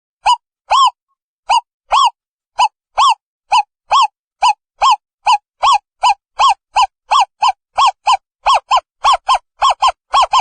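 Owl calling: a series of short hooting notes, each rising and then falling in pitch, repeated faster and faster, from about two a second at the start to about four a second near the end.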